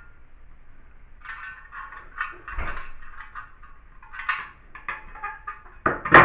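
Hand tools working on a bathtub tap fitting: irregular scraping, squeaky strokes, with a dull knock about midway and a sharp clack near the end.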